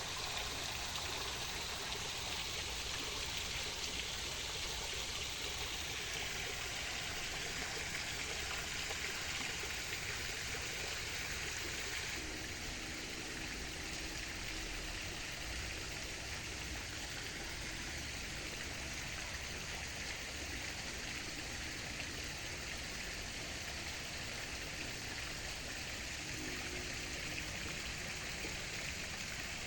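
Running water, a stream flowing steadily with an even rushing hiss that eases slightly about twelve seconds in.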